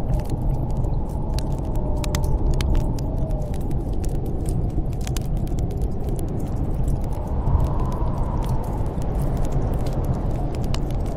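Steady low rumble of snowstorm wind with a faint wavering howl, overlaid by a wood fire crackling in a fireplace with scattered sharp pops.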